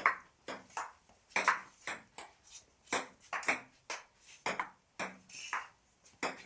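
Table tennis rally: the celluloid ball clicking off the table and the bats in quick alternation, about two strikes a second.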